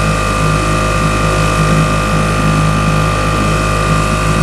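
Small boat's engine running steadily at cruising speed while under way, an even drone with no change in pitch.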